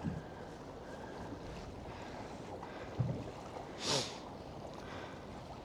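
Water lapping against a small fishing boat's hull as it rocks in the swell, with wind on the microphone. A single thump about three seconds in and a short whoosh, like a splash, just under a second later.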